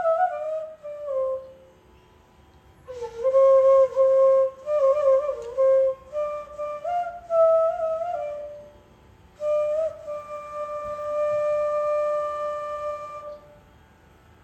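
Solo flute playing a slow Carnatic melodic line: a falling phrase, a short pause, then ornamented, bending phrases that settle on a long held note, which stops about a second before the end.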